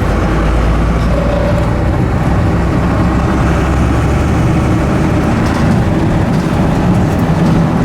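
1989 Dodge D350's 12-valve Cummins turbo diesel running steadily with the truck under way: a low, even rumble.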